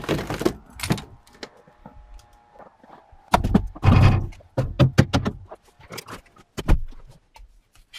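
A string of thunks and knocks from a car door being opened and handled, the heaviest clunk about three and a half seconds in.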